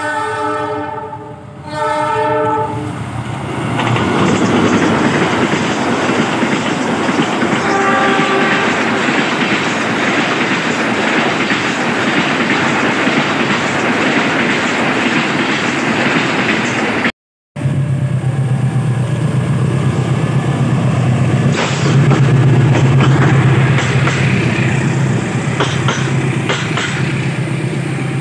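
Train horn sounding twice, then a train running past at speed, with a short horn note about eight seconds in. After a sudden cut, another train passes with a steady low engine hum and the clicking of wheels over rail joints.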